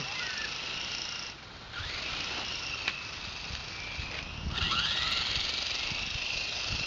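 Small RC helicopter's electric motor and rotor whining at a high pitch. The whine drops away twice, about a second and a half in and again near the four-second mark, and each time rises back up as the motor spools up again.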